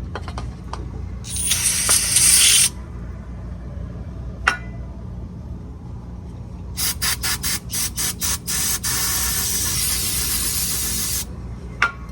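Aerosol spray can hissing: one burst of over a second, then later a string of short sputtering squirts that runs into a steady spray of a couple of seconds before cutting off.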